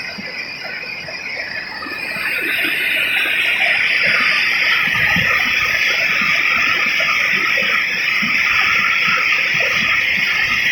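Steady rush of water at a waterfall, growing louder about two seconds in and then holding.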